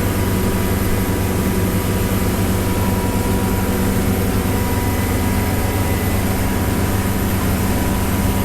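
Heavy vehicle engine running at a constant pace: a loud, steady low drone with a thin higher whine over it.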